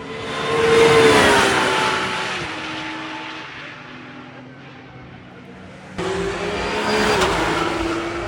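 A race car with a heavily muffled exhaust passes at speed, its engine note dropping as it goes by. About six seconds in, a cut brings in a second muffled race car passing, its note also falling.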